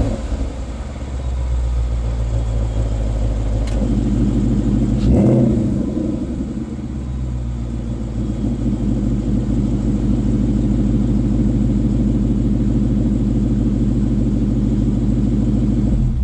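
Ford Mustang GT's 5.0 V8 running through an aftermarket valved exhaust, a steady deep note with a short rise in revs about five seconds in.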